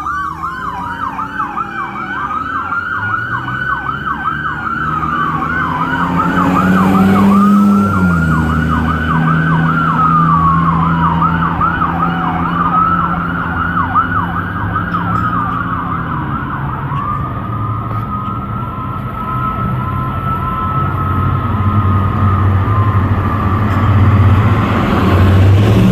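Electronic emergency-vehicle sirens on a fire apparatus response: a fast yelp with a slower wail rising and falling over it several times, switching about two-thirds through to a steadier pulsing tone. Underneath runs the steady drone of a vehicle engine, which grows louder near the end.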